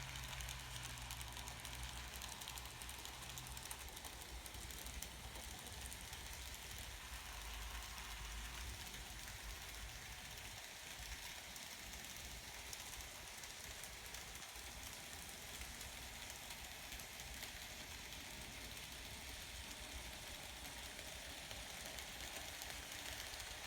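N scale model circus train running on its track: a faint steady whir with fine, rapid clicking of the small wheels over the rails. A low hum fades out about four seconds in.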